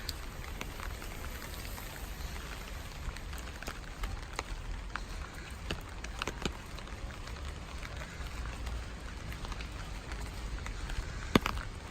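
Steady rainfall with scattered drops ticking sharply, one louder drop hitting near the end, over a low rumble.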